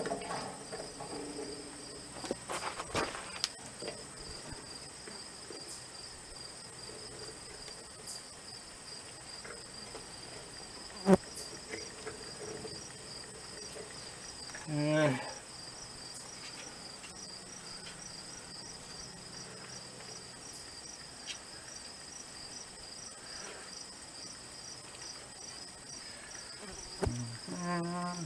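Crickets chirping in a steady, fast pulsing trill, with a sharp knock about eleven seconds in and a few lighter clicks.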